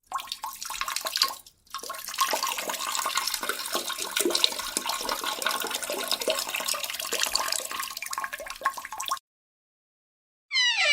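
Water rushing and splashing for about nine seconds, with a short break early on, then cutting off suddenly.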